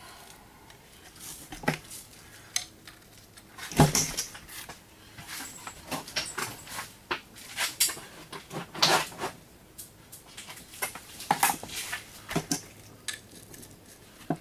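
Metal parts and hand tools clinking, knocking and clattering in an irregular run while a coffee grinder is being taken apart, with the sharpest knock about four seconds in.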